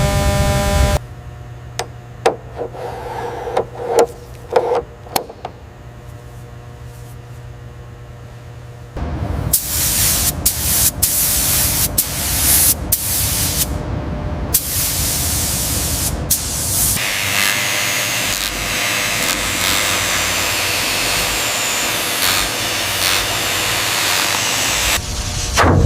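Loud hissing spray from a compressed-air tool, starting about nine seconds in and cutting out briefly a few times. It follows a quieter stretch of scattered clicks and taps, and turns into a steadier, higher hiss for the last several seconds.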